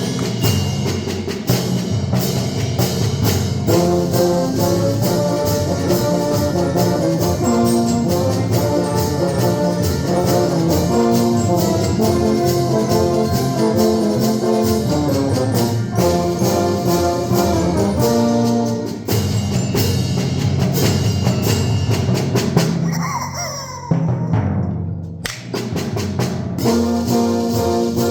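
Concert band playing a fast galop, with brass over timpani and percussion. In a short break near the end, a rubber chicken squeaks in rising and falling glides before the band comes back in.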